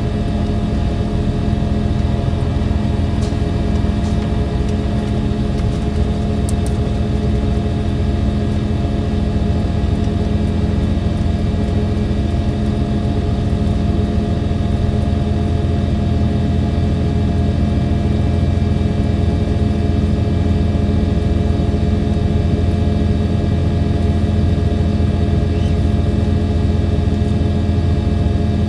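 Diesel engine of a KiHa 283 series express railcar running steadily under way, heard from inside the car as a constant even drone.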